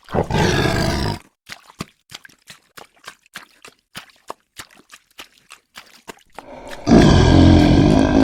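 A big cat roars for about a second. Irregular sharp ticks follow, then a second, longer and louder roar swells up near the end.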